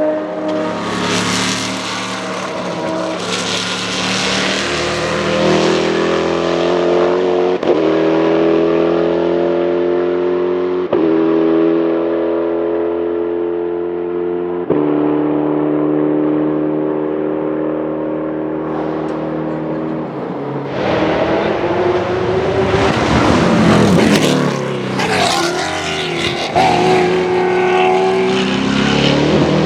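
Saleen S7-R GT1 race car's 7.0-litre naturally aspirated V8 running at speed. Its note drifts slowly lower with three sudden steps up in pitch. About two-thirds of the way in it turns louder and rougher, with quick rises and falls in pitch as it passes close by.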